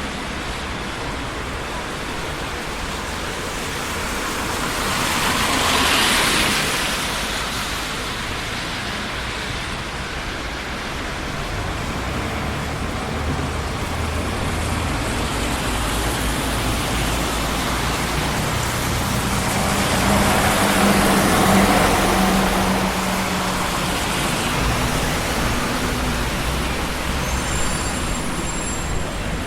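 Steady traffic noise on a busy city street, with vehicles passing one after another. One passes loudly about six seconds in, and a heavier vehicle with a low engine hum swells past around twenty seconds in. Faint high tones come near the end.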